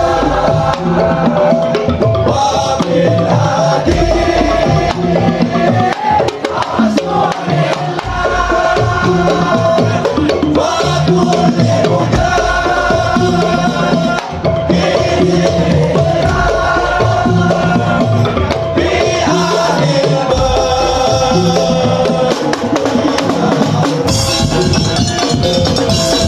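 Madurese tong-tong (ul-daul) music: wooden slit drums and drums beat a steady rhythm while a pitched melody line plays a sholawat tune over them.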